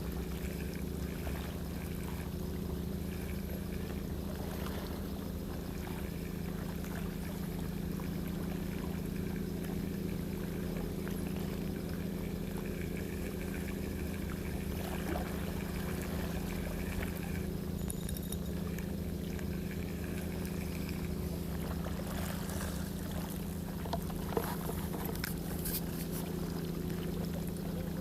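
Steady low engine hum, constant in pitch, with faint water noise and a few small clicks near the end.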